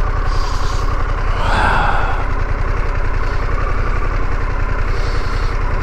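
Harley-Davidson Pan America's V-twin engine running steadily at low revs, with a brief hiss about one and a half seconds in.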